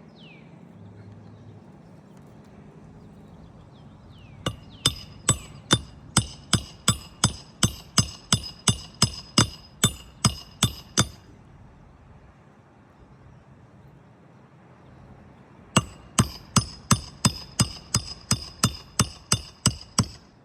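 Hammer driving nails during a roof shingle repair: two runs of quick, even blows, about three a second, each with a metallic ring, separated by a pause of a few seconds.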